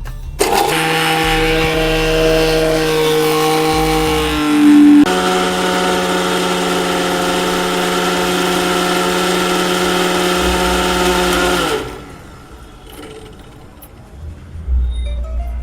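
Electric kitchen mixer grinder running at speed with a steady motor whine, as when grinding a paste. It shifts pitch once about a third of the way through and stops suddenly about three-quarters of the way through.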